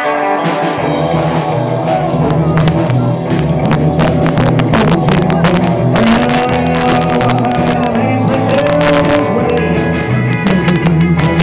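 Live rock and roll band playing a song, the full band coming in just after the start.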